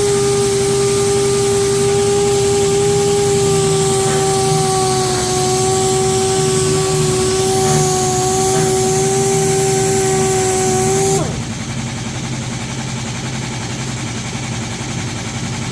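A power sander running steadily at high speed with a constant whine, sanding with 80-grit paper, then switched off about eleven seconds in, its pitch falling as it spins down. A steady low hum carries on under it and after it.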